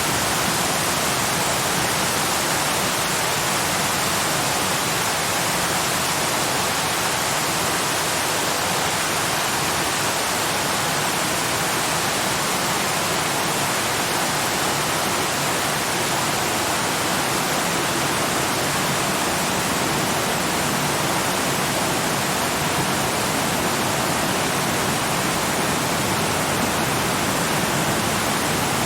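Waterfall, a steady, even rush of falling water with no changes.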